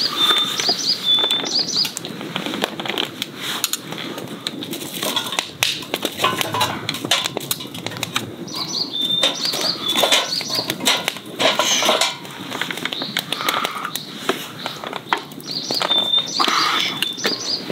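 A wild bird calls three times, about once near the start, once midway and once near the end: each call a quick run of high chirps ending in a short whistle. Underneath, a wood fire burning in a fire grill crackles and snaps continuously.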